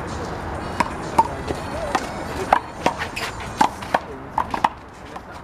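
A one-wall handball rally: a rubber handball is slapped by hand and smacks off the wall and ground, making a quick run of sharp hits at an uneven pace.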